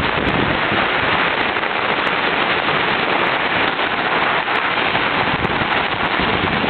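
Steady, loud rushing noise of a flood-swollen river running high after dam releases, mixed with falling rain.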